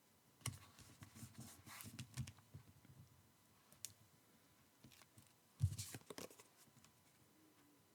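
Card pages being handled and pressed into place on a card: faint scattered clicks and soft paper rustles, with a louder knock and rustle about two-thirds of the way through.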